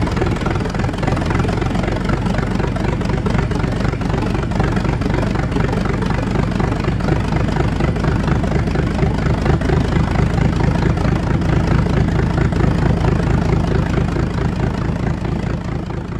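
An internal combustion engine running steadily with a fast, even firing pulse, its sound strongest in the low end and fading out near the end.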